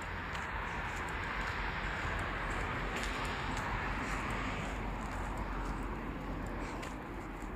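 Steady rushing outdoor background noise with a low rumble beneath and faint scattered clicks.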